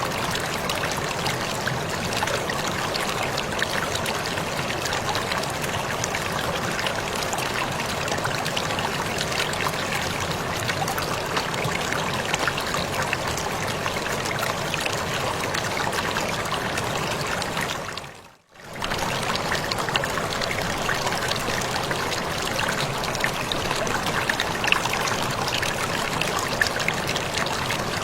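Waterfall rushing in a steady, dense wash of water noise. It fades out briefly, about two-thirds of the way in, and comes straight back.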